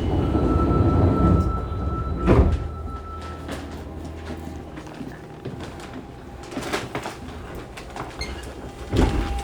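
Sliding doors of a Fukuoka City Subway 2000-series car closing, shutting with a single knock a little over two seconds in. A few faint clicks and another knock follow near the end as the train readies to depart.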